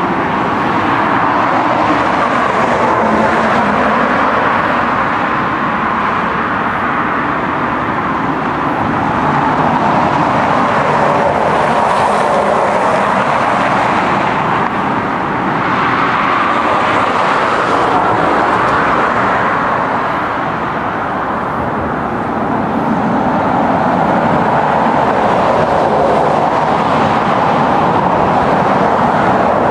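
Steady rolling noise of a moving vehicle, easing and swelling slightly now and then.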